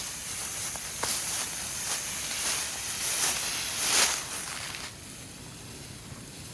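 Footsteps through dry grass with the rustling scrape of a freshly cut cedar tree being dragged along the ground, louder about four seconds in and quieter near the end.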